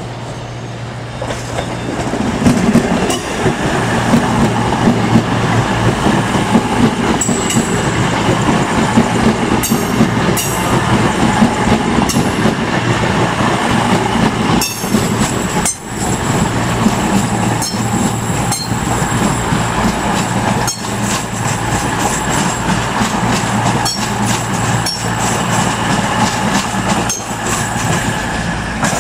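CrossCountry Class 220 Voyager diesel multiple unit passing close by. Its underfloor diesel engines give a steady drone, its wheels click irregularly over rail joints and points, and there are spells of high-pitched wheel squeal.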